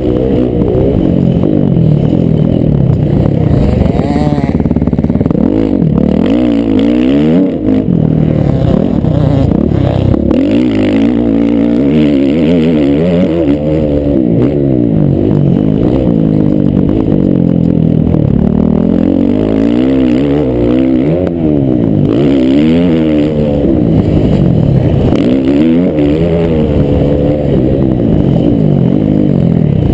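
Several motocross bikes racing, their engines overlapping as they rev up and drop back again and again through gear changes and throttle on and off.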